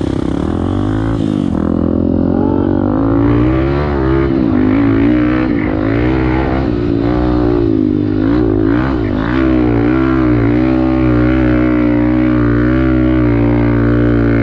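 Off-road motorcycle engine running hard while riding, its pitch rising and falling again and again as the throttle is worked.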